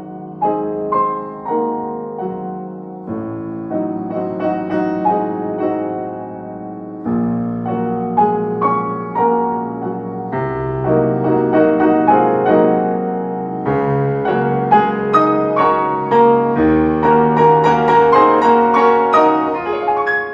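Solo piano music, a calm classical-style piece of struck notes and chords, growing fuller and louder after about halfway.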